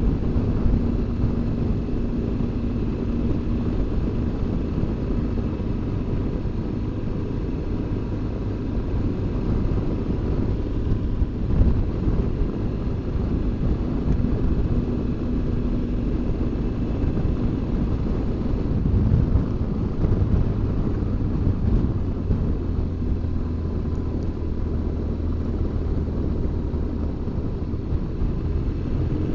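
BMW R1200GS Adventure's flat-twin engine running while riding at road speed, mixed with steady wind and road noise. The engine note shifts in pitch now and then, with a brief rise and fall about two-thirds of the way through.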